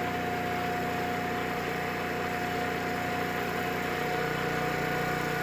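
Briggs & Stratton Q6500 inverter generator running steadily at full speed with its QuietPower (QPT) mode off: an even engine hum with a steady whine over it.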